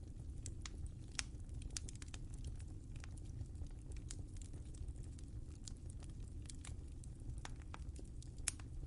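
Wood fire crackling in a fireplace: irregular sharp pops and snaps over a steady low rumble of the flames, with one louder pop about a second in and another near the end.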